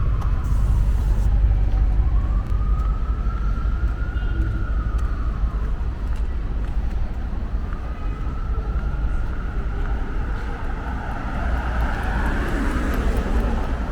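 Emergency-vehicle siren wailing, its pitch sliding slowly up and down in cycles of about five or six seconds, over a steady low rumble of city traffic.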